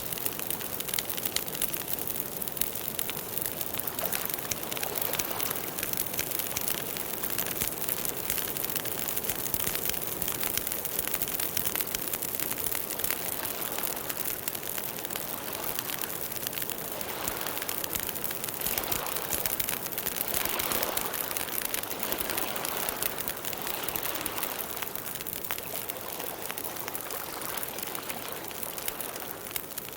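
Campfire burning: a dense run of small crackles and pops over a steady hiss.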